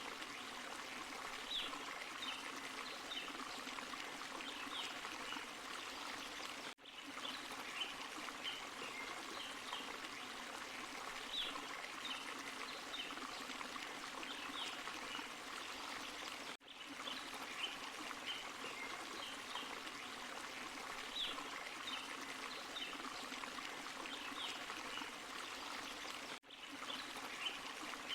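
Steady rush of a small forest waterfall and stream, with little splashy flecks over the flow. The sound cuts out for a split second three times, about ten seconds apart, where the looped recording restarts.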